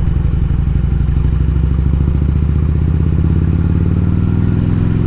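Harley-Davidson Road King's V-twin engine running on the road, its pitch rising gradually as the bike speeds up.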